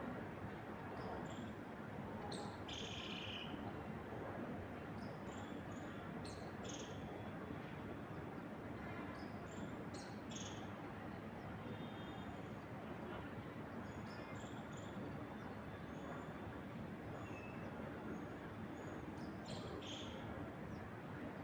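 Wind moving through trees in a steady, even rush, with birds chirping in short high calls scattered throughout.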